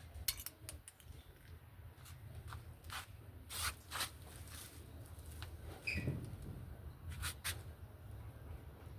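Scattered clicks and light taps, like parts and tools being handled, over a steady low hum, with a brief high chirp about six seconds in.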